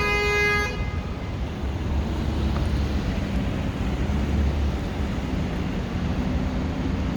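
A vehicle horn toots once, briefly, right at the start, over steady street traffic rumble.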